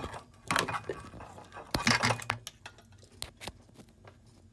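Handling noises: two short rustles, about half a second and two seconds in, amid scattered light clicks and taps.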